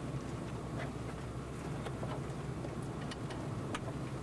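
Steady low hum of a vehicle's idling engine heard from inside the cab, with scattered light ticks.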